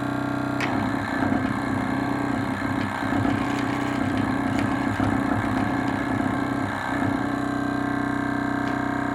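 A small thermoacoustic model engine running: a rattling mechanical sound with small clicks over a steady humming tone. The rattle starts about half a second in and stops about seven seconds in, leaving the hum.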